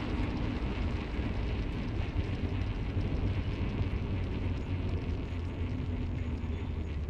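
Car on the move: steady low rumble of engine and tyre road noise with no distinct events.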